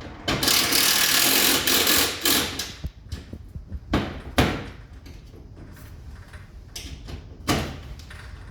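Parts of a four-way ceiling-cassette air conditioner being handled and fitted back together: a rush of noise about two seconds long, then a few sharp knocks and clicks.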